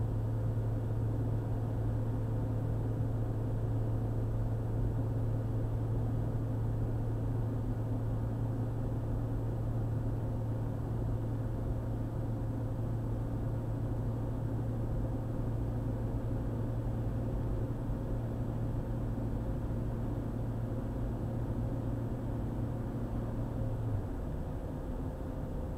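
Car driving at a steady highway speed: a constant drone of engine and road noise with a low hum that drops away near the end.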